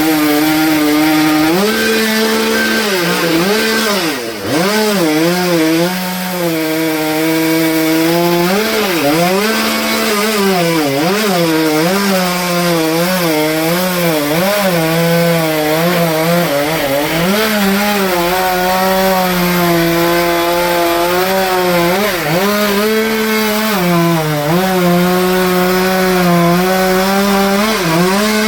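Chainsaw cutting through wood, its engine revving high and repeatedly sagging and recovering in pitch as the bar bogs under load in the cut.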